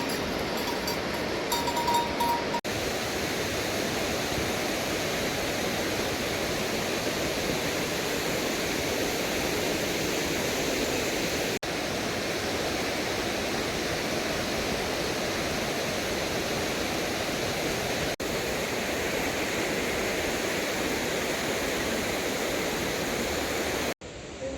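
Steady heavy rain, an even hiss of falling water. It breaks off for an instant a few times and comes straight back, with a brief ringing tone about two seconds in.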